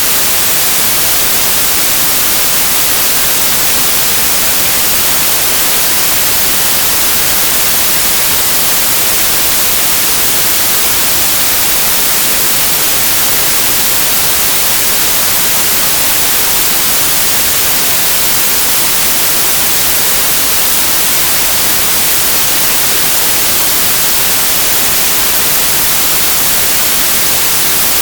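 Steady, loud hiss like white noise or static, with even strength throughout and most energy in the high end.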